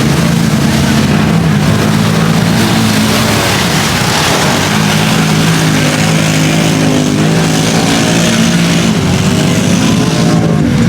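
Off-road vehicle engines running hard at high revs, their pitch wavering up and down over a steady rush of noise.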